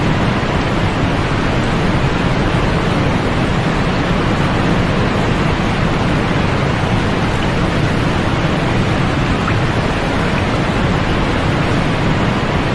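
Steady, unbroken white noise for sleep: an even, deep hiss with no swells or breaks, weighted toward the low end and dimming in the highest tones.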